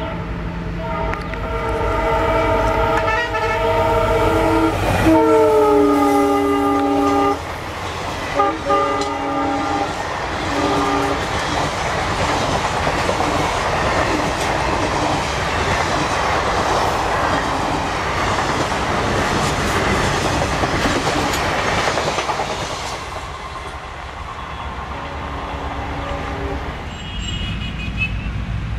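A WDP4 diesel locomotive passes at speed, sounding its multi-tone air horn in one long blast whose pitch drops as it goes by, then two short toots. The coaches then rush past with a loud steady rattle over the rails, which fades away near the end.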